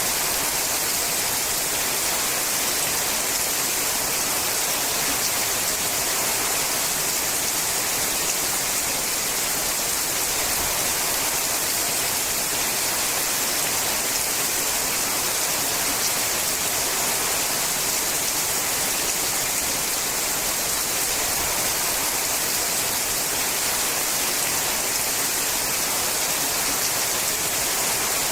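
Steady rain falling on a sheet-metal roof, an even, unbroken hiss with no single drops standing out.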